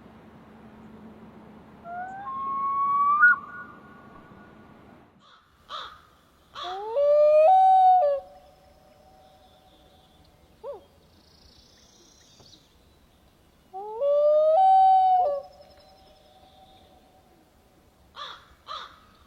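Common loon wailing: three long calls, each sliding up and then held, the first higher in pitch than the other two. A few short sharp sounds follow near the end.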